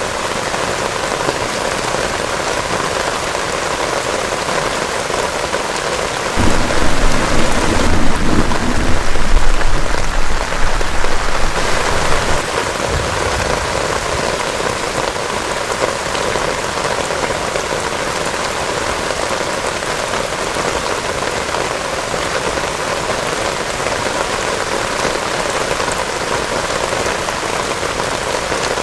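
Heavy rain falling steadily, with a rumble of thunder about six seconds in that lasts around five seconds and is the loudest sound.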